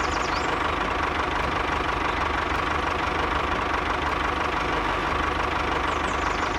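Mini tractor engine running steadily at an even pace.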